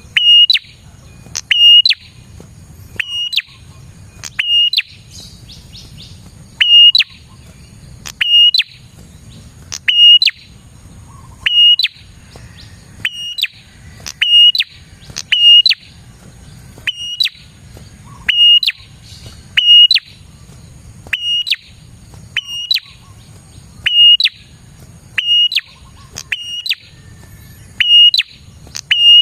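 Prenjak (bar-winged prinia) calling over and over, about one sharp, high call a second and often in pairs. Each call is a quick upward flick ending on a short held note, over a faint steady high hiss.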